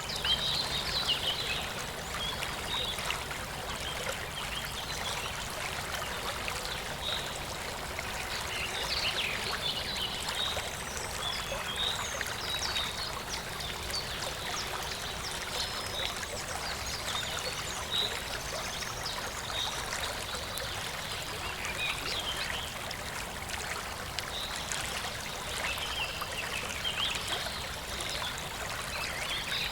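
A stream running steadily, with birds chirping on and off.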